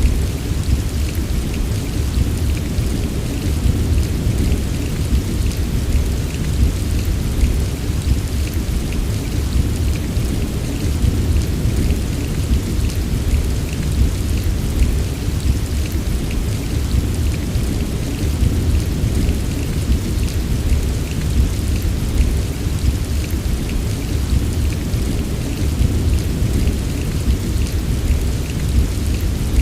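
Steady rain, with fine drop ticks over a continuous deep rumble like ongoing distant thunder. No single thunderclap stands out.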